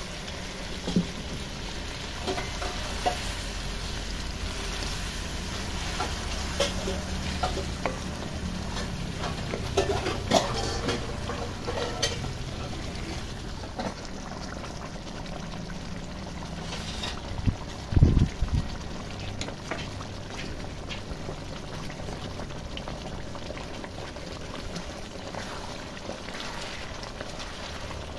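Chicken curry bubbling and sizzling in a metal pan, with the scrape and clink of a spatula stirring it now and then. A louder knock comes about eighteen seconds in.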